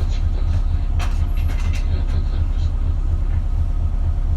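Isuzu Erga KL-LV280L1 city bus heard from inside the cabin while running: a steady low engine drone with a pulsing beat. A few light rattles and clicks come about a second in.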